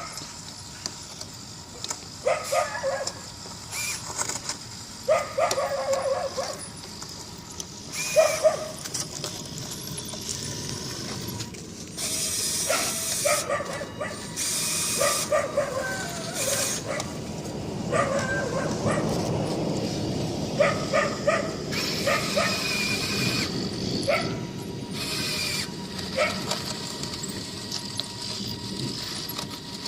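Radio-controlled model D11 bulldozer working, its drive and tracks giving a mechanical ratcheting clatter with a whirring that builds in the middle. Short pitched yelping sounds come every second or two over it.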